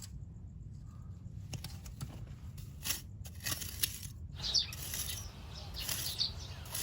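Outdoor ambience: a steady low wind rumble on the microphone, with birds chirping faintly in the second half and a few light knocks.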